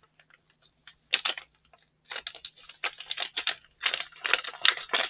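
Plastic bag of Kit Kats being opened carefully: irregular crinkling and crackling of the plastic, a few faint ticks at first, then busier and louder toward the end.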